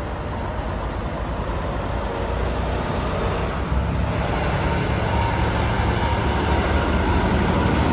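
A heavy truck's engine running steadily, growing gradually louder.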